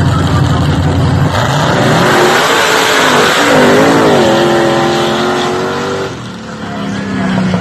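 Mud racing truck's engine revving hard under a loud rushing noise, its pitch climbing and wavering through the middle. It eases off about six seconds in, settling to a lower steady note.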